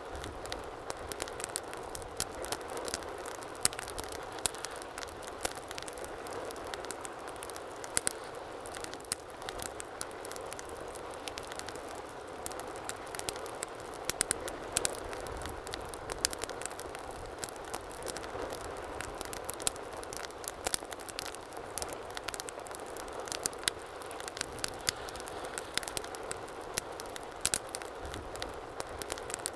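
Wood fire crackling in a fireplace: a steady soft rush of flame with frequent sharp, irregular pops and snaps.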